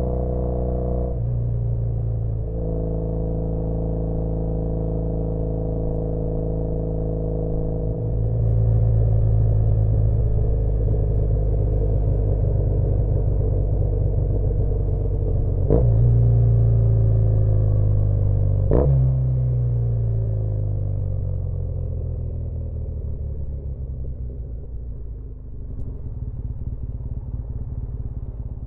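2013 Triumph Bonneville T100's 865 cc air-cooled parallel twin running through British Customs Sleeper Pro exhausts while riding. It runs steadily, gets louder as it pulls harder about eight seconds in, and gives two sharp cracks about three seconds apart midway through. In the last third it falls in pitch and level as the bike slows.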